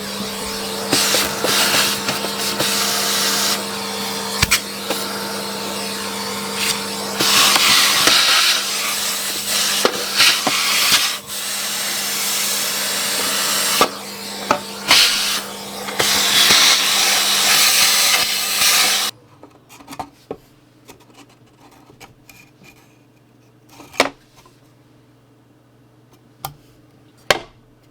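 Vacuum cleaner running, sucking up hay-like packing from a gift box, the rush of air louder and brighter in stretches as the nozzle works. It switches off abruptly about two-thirds of the way through, followed by a few light clicks and knocks.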